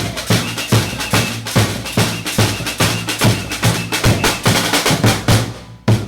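Samba percussion group (batucada) playing a fast, driving rhythm on bass drums and snare drums. Near the end the drumming drops away briefly, then comes back in with a strong hit.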